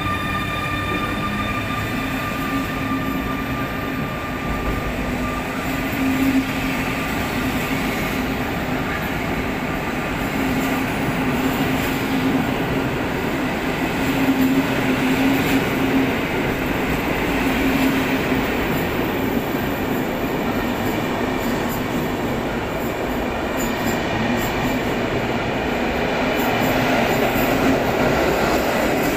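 PKP Intercity train pulling out behind a Newag Griffin EU160 electric locomotive, with a steady whine in the first few seconds that then fades. After that comes the constant rumble of passenger coaches rolling past the platform, echoing in the enclosed underground station and growing a little louder near the end.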